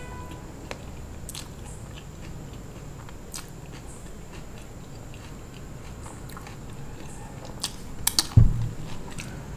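Close-miked chewing of a soft aloo tikki burger, with wet mouth clicks and smacks scattered throughout. A louder cluster of clicks and a low thump come about eight seconds in.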